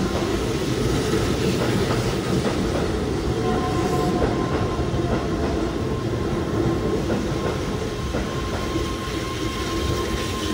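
Keihan 13000 series electric train running in alongside the platform as it slows to stop: a steady, loud rumble of wheels on rails. A faint steady high tone joins in about eight seconds in.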